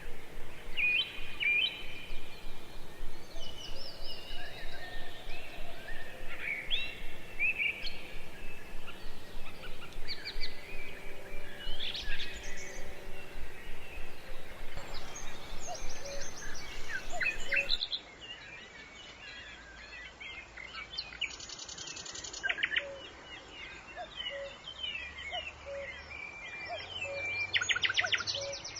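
Several wild birds chirping and singing, with short whistled notes and glides. Just past halfway the sound drops suddenly to a quieter stretch of birdsong, with two fast trills later on.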